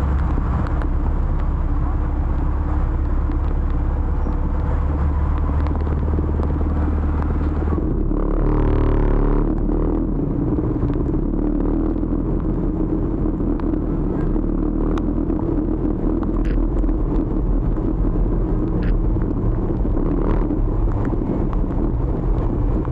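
Motor scooter running steadily through city traffic, with an engine hum, a heavy low rumble and road noise; a louder passing whoosh swells and fades about eight to ten seconds in.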